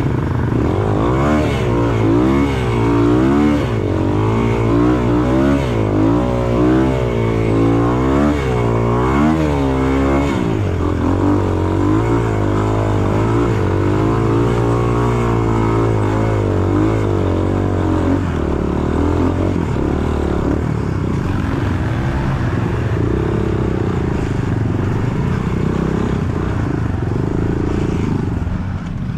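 Enduro dirt bike engine revving up and down about once a second on a muddy trail, then running more steadily at lower revs from about a third of the way in.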